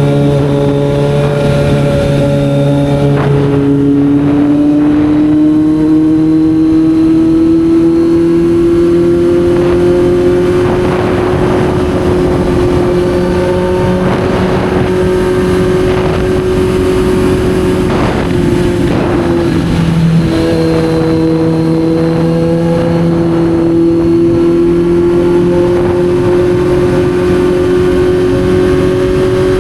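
Kawasaki Z900's inline-four engine running under way. Its note shifts about three seconds in, then climbs slowly; it breaks briefly near two-thirds through and rises again.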